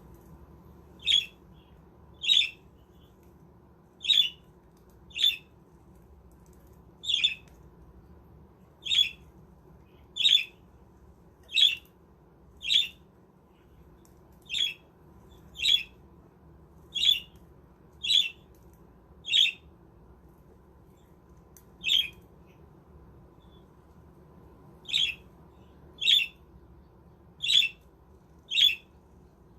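Pet budgerigar giving short, sharp squawking calls, one roughly every second, with a brief pause about two-thirds of the way through.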